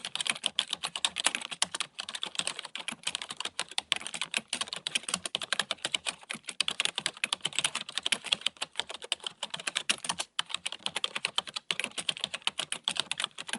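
Fast typing on a computer keyboard: a dense run of clicking keystrokes with a few brief pauses, stopping abruptly at the end.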